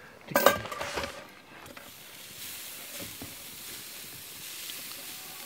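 A few metal clanks of cookware about half a second in, then a steady sizzle of food frying in a pan that starts about halfway through and keeps going.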